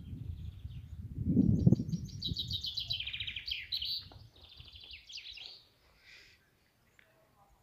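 Small songbirds singing in quick trilled chirping phrases, over a low rumble during the first two seconds. The birdsong fades out after about six seconds.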